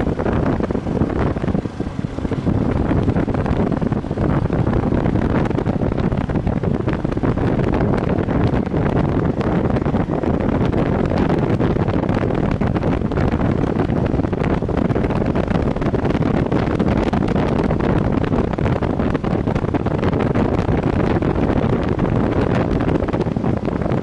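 Heavy wind buffeting the microphone on a moving Viper V250C cruiser motorcycle, a steady dense rush that buries the engine.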